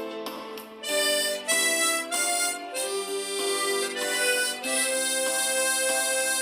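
Harmonica playing a slow melody, a run of short sustained notes followed by a longer held note in the second half.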